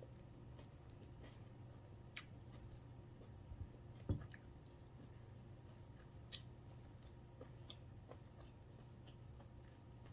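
A person chewing food, quiet mouth sounds with scattered soft clicks, and one louder knock about four seconds in, over a steady low hum.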